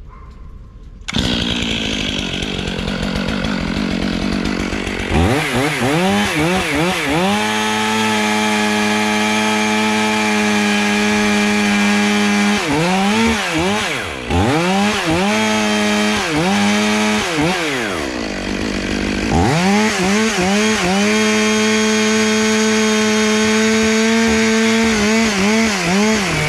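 Chainsaw running loud from about a second in. It is revved up and down in quick blips, then held at steady full throttle while cutting into the trunk from the butt end, easing off briefly partway through before running flat out again.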